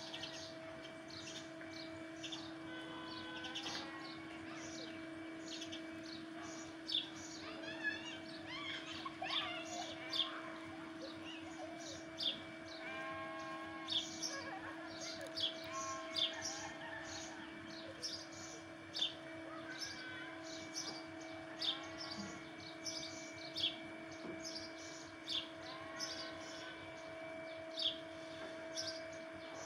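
A bird chirping over and over, short sharp notes about once a second, over a steady low hum.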